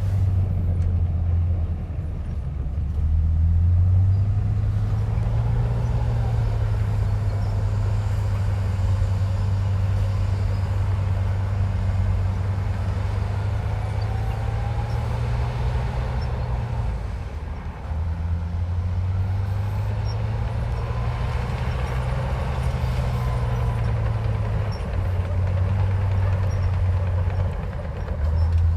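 Komatsu bulldozer's diesel engine working steadily with a deep drone. Its note shifts with load and drops briefly about two-thirds of the way through, and a faint whine rises and falls above it.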